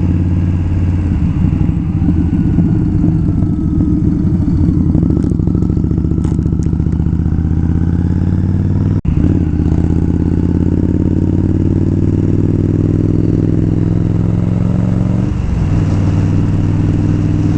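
Indian Scout's V-twin engine running under way. There is a brief break in the sound about nine seconds in as a gear changes, and the engine note then rises steadily as the bike accelerates. The note drops again at another shift about fifteen seconds in.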